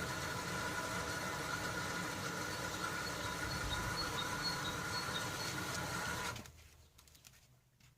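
Privileg Sensation 9245 washing machine running with a steady motor hum and whine, which cuts off suddenly about six seconds in, leaving a few faint clicks.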